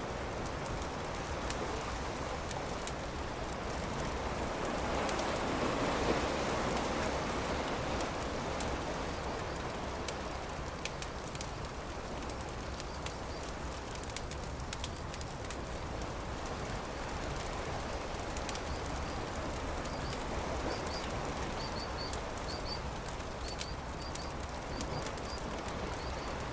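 Campfire crackling with scattered sharp pops, over a steady wash of surf that swells about five seconds in. A few short high chirps near the end.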